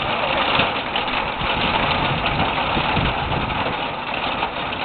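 Thunderstorm noise: a steady, loud hiss of rain and wind with low rumbles swelling about three seconds in.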